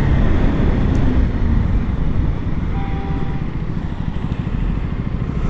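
KTM Duke 250's single-cylinder engine running on the move, under heavy wind buffeting on a lavalier mic. The loudness eases slightly toward the middle.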